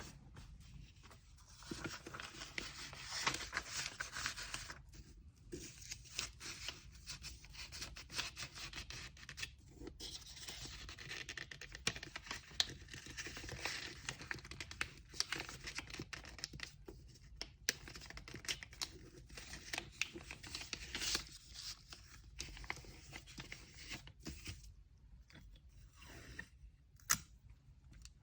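Paper packing materials being handled: rustling, crinkling and tearing in spells of a few seconds, with quieter gaps and scattered sharp clicks.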